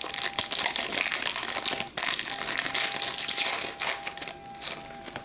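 A hockey card pack wrapper being torn open and crinkled in the hands: dense crackling that eases off after about four seconds.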